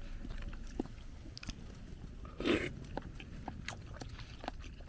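A person chewing a mouthful of sukiyaki tofu: small, soft, wet clicks of the mouth at an uneven pace, with one short hissy noise about two and a half seconds in.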